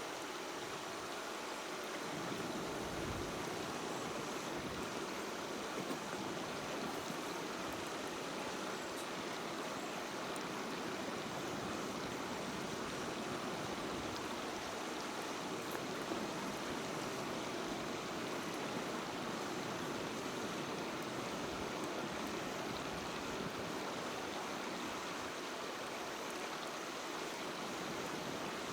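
Steady rushing of running water, an even noise that doesn't change.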